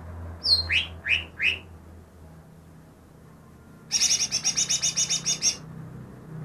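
Cucak ijo (green leafbird) singing: three quick high falling whistled notes about half a second in, then a fast, high chattering trill of about a dozen notes near four seconds in.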